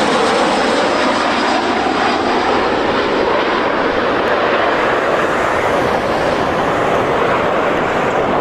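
Jet engine noise from a Boeing 737 MAX 9's CFM LEAP-1B turbofans as the airliner lands: a steady, loud rush, with a faint tone gliding down and back up in pitch in the first couple of seconds.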